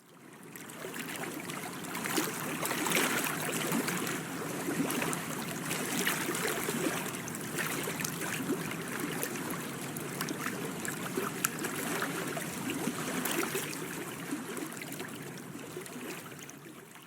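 Water trickling and gurgling, a steady splashy noise with many small crackles.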